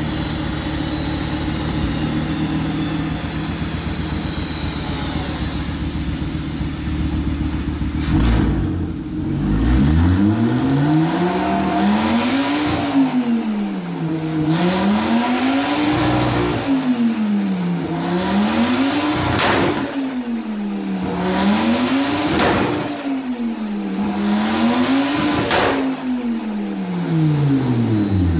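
VW 2.5-litre five-cylinder engine idling steadily for the first eight seconds or so, then revved up and back down again and again, about five times at roughly three-to-four-second intervals.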